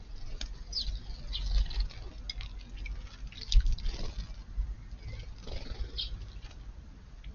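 House sparrows chirping in short calls over light patter and dripping of water, with a sharper splash-like hit about halfway through and a low rumble underneath.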